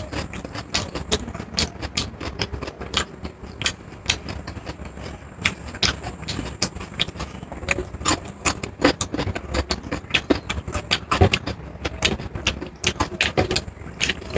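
Close-miked eating sounds: a person chewing and smacking, heard as irregular sharp clicks several times a second over a low rumble.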